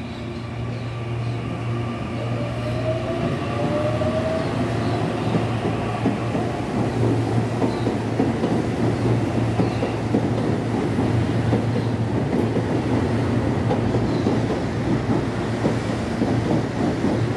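Electric commuter train coming alongside the platform and running past close by. A rising whine in the first few seconds gives way to a growing rumble and rapid clatter of steel wheels on the rails.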